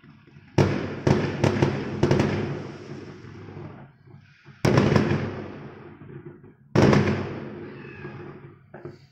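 Fireworks exploding: a quick run of four loud bangs, then two more single bangs about two seconds apart, each trailing off in a fading rumble.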